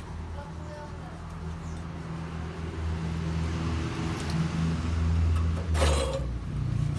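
A motor vehicle engine hums steadily, growing louder over the last few seconds. A short metallic clank comes about six seconds in.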